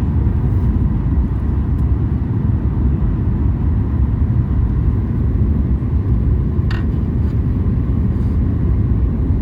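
Steady low rumble of a Boeing 737 MAX 8 heard from inside the passenger cabin, with a brief click about seven seconds in.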